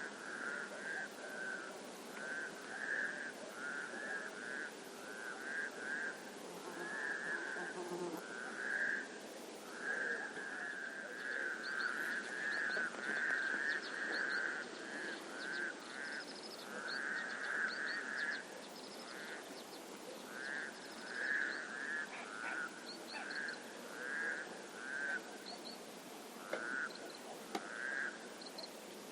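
Frogs calling at a forest lake: a run of short, repeated calls, one after another every half second or so. From about a third of the way in, faint high chirps join them.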